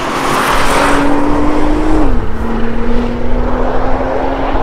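2022 Nissan GT-R's 3.8-litre twin-turbo V6 accelerating hard down the straight, its pitch climbing steadily, then dropping sharply on a quick dual-clutch upshift about two seconds in before climbing again.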